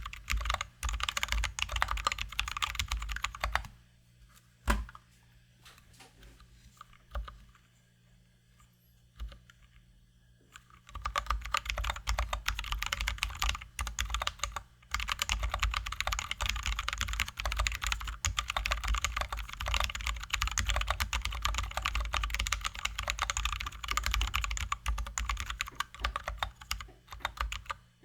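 Fast typing on a Drop ALT high-profile mechanical keyboard with lubed, filmed Zealios V2 67g tactile switches and XDA keycaps. The rapid run of keystrokes stops after a few seconds, leaving a few lone key presses, then dense typing resumes a little over a third of the way in.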